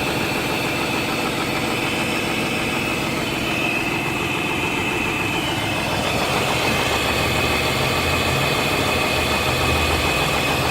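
Mazda RX-8's 13B Renesis rotary engine idling unevenly on only one rotor, kept running on oil added through the spark-plug holes: the apex seals no longer seal. The low rumble grows a little stronger from about six seconds in.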